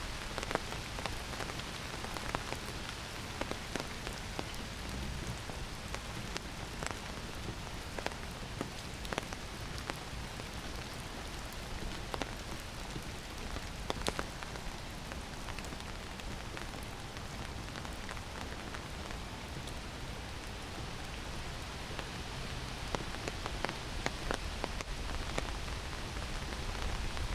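Heavy summer rain falling in a forest: a steady hiss of rain with frequent sharp taps of single drops landing close by.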